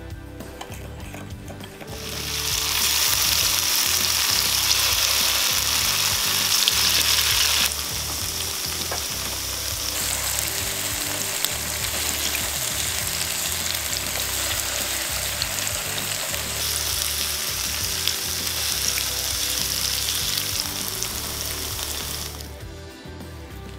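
Slices of tofu sizzling as they pan-fry in oil. The sizzle starts about two seconds in, drops a little after a few seconds, and dies away near the end.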